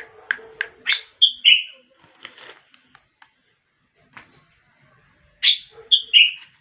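Bulbul singing short, loud whistled phrases: one burst about a second in and another near the end, with a few scattered chirps between.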